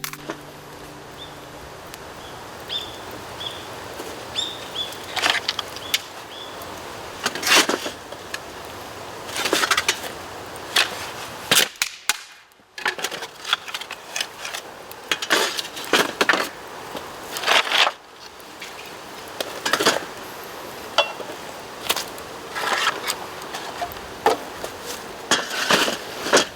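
Bamboo burning in a bonfire: irregular sharp cracks and pops, some in quick clusters, over a steady faint background.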